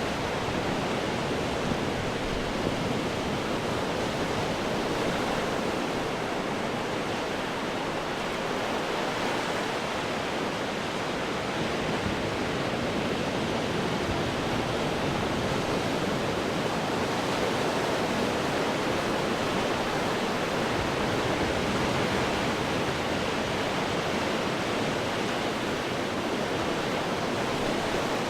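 Ocean surf breaking on rocks, a steady dense wash of water with only gentle swells in level and no single distinct crash.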